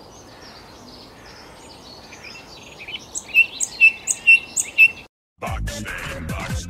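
European robin calling: faint high twittering, then about six sharp, loud chirps in quick succession in the second half. After a brief break near the end, a louder, low-pitched sound takes over.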